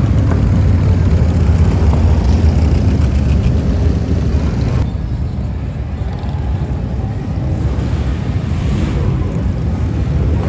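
Loud, continuous running of motorcycle engines in a street, a dense low-pitched mix from several bikes. It eases slightly about five seconds in.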